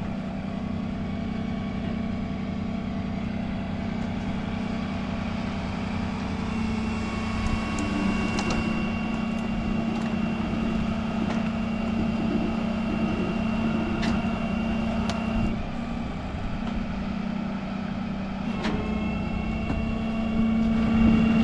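Tow truck's engine running steadily. A higher steady whine joins over it about six seconds in, drops out around fifteen seconds, and comes back near the end, with a few sharp clicks along the way.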